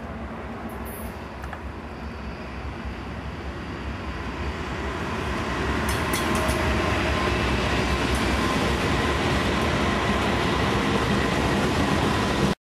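BNSF eastbound intermodal train led by GE diesel-electric locomotives (C44-9W, ES44C4, ES44DC) approaching and passing close by. The engine and rail noise swells between about four and six seconds in as the lead units go past, holds steady, then cuts off abruptly near the end.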